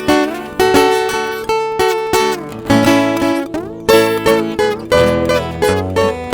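Instrumental introduction to a sertanejo song: a viola caipira picks the melody over strummed acoustic guitar. A bass line comes in about three seconds in.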